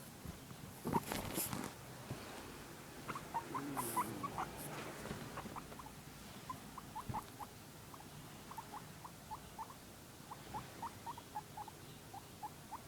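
Guinea pig making runs of short, soft, rising squeaks, several a second, with some rustling about a second in.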